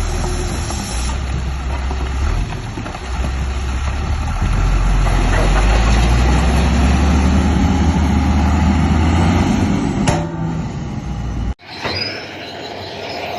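Bulldozer's diesel engine running hard with a deep rumble, getting louder about four and a half seconds in, with a sharp click near ten seconds. Near the end the sound cuts off suddenly and gives way to quieter machine noise with a few high squeaks.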